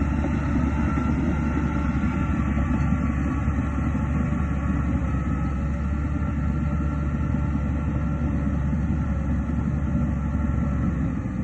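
Heavy earthmoving machinery running steadily: a continuous low diesel rumble with a faint, thin whine above it.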